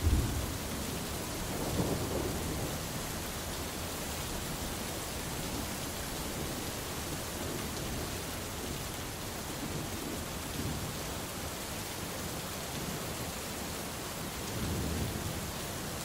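Steady heavy rain with low rolling thunder: a rumble is loudest right at the start, another swells about two seconds in, and a third rolls in near the end.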